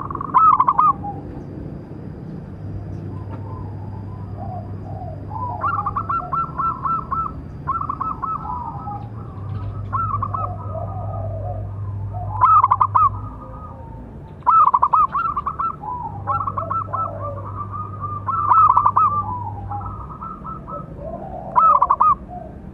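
Zebra dove (perkutut) cooing in repeated phrases of rapid trilled notes, one every second or two, with softer lower notes in between. The loudest phrases come near the start, around the middle and near the end.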